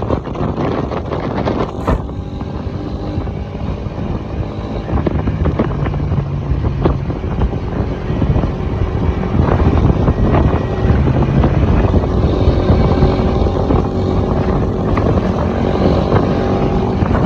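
Engine running under way, with wind buffeting the microphone; it grows louder about ten seconds in.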